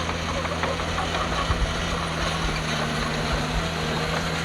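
Heavy diesel engine of earthmoving machinery running steadily, with a few dull knocks about a second and a half in.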